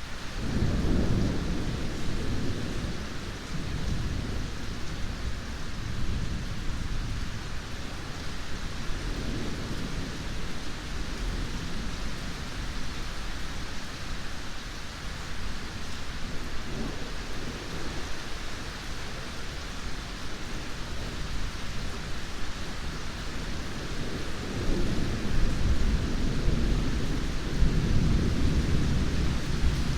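Steady heavy rain hissing, with rolling thunder rumbling underneath: a roll at the start, lighter rumbles about a third and halfway through, and a longer, louder roll over the last several seconds.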